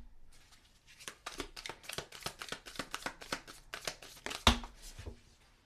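Tarot deck being shuffled by hand: a quick run of papery card flicks, then a single louder slap of cards about four and a half seconds in.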